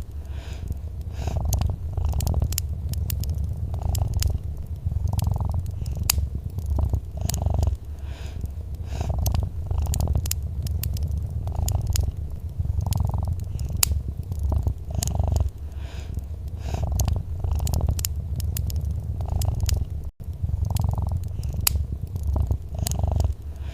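Domestic cat purring steadily, swelling and easing about once a second with each breath, over the scattered sharp crackles of a wood fire. The sound cuts out for an instant about twenty seconds in.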